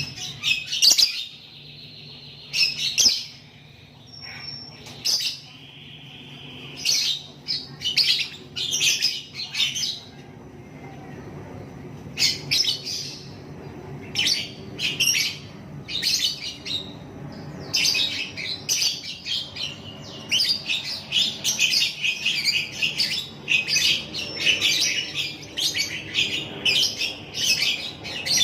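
Lovebird singing in rapid high chirping bouts. It pauses briefly in the first part, then chatters almost without a break through the second half.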